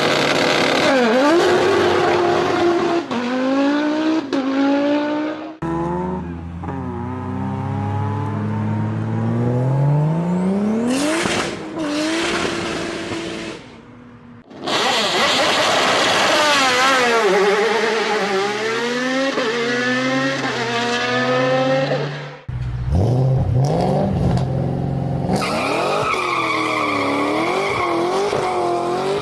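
A series of different car engines revving one after another, each cut off abruptly by the next, their pitch sweeping up and down with each rev.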